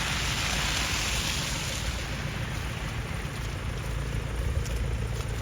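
A vehicle passing on a wet, slushy street: tyre hiss that fades about two seconds in, over a steady low engine rumble.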